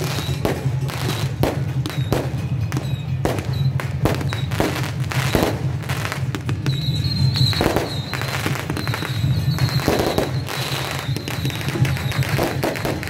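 Firecrackers going off in irregular, rapid cracks, with music going on underneath.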